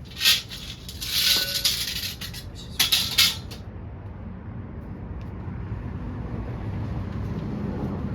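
Cordless impact wrench running in short bursts on bolts, one short, one of about a second and another short one, followed by a steady low rumble.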